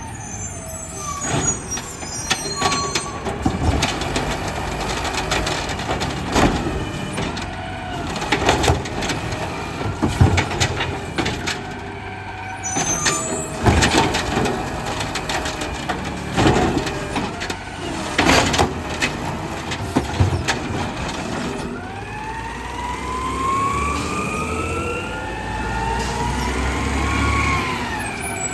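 Garbage truck at work on a collection route: repeated metal bangs and clanks as carts are emptied, short air-brake hisses, and from about three quarters of the way in a rising whine as the engine revs under load.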